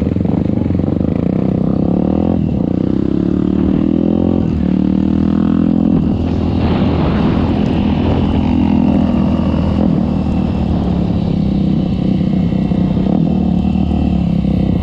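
Trail motorcycle engine running hard, its revs rising and falling as the bike is ridden over the trail.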